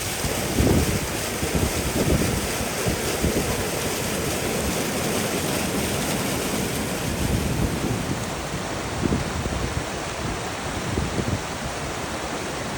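Steady rushing of fast-flowing water, with wind buffeting the microphone in irregular low gusts.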